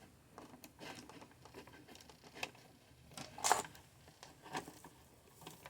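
Faint handling noises from a humidifier's power cord and plug being handled: light clicks and rustles, with a louder rustle about three and a half seconds in.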